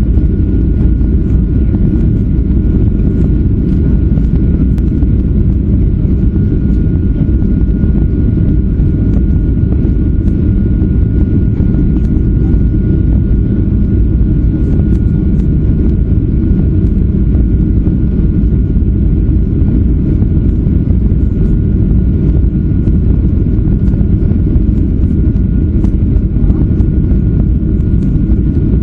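Steady cabin noise inside a Boeing 737-400 on approach to landing: a loud, even low rush of airflow and its CFM56 engines, with a thin steady whine above it.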